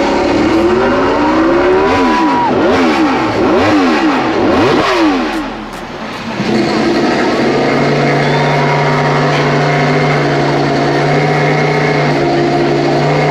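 Yamaha YZR-M1 MotoGP bike's crossplane inline-four revved in several quick rising and falling blips. About six seconds in, it gives way to a KTM RC16 MotoGP bike's V4 engine idling steadily.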